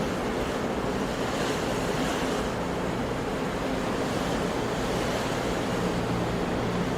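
Sea waves washing on the shore in a steady wash of surf.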